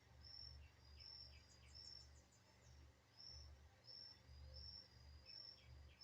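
Faint outdoor ambience: a short, high note repeating about every 0.7 seconds, with quick little runs of chirps in between and a low rumble underneath.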